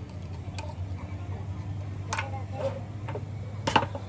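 Scattered metallic clicks and clinks, about five, two close together near the end, from metal tools or engine parts being handled, over a steady low hum.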